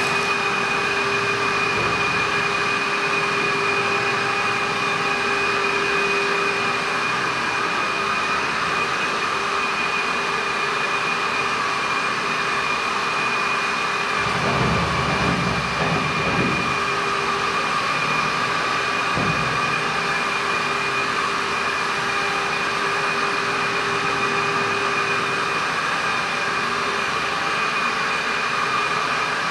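Jimmy HW8 cordless wet-and-dry stick vacuum running steadily, its motor giving a constant high whine over a steady rush of air. A brief low rumble comes about halfway through.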